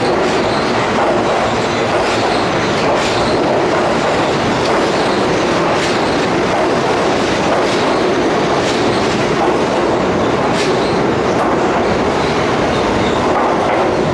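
Keihan Main Line electric train running through the station with a steady rumble of wheels on rail and scattered clicks as the wheels cross rail joints.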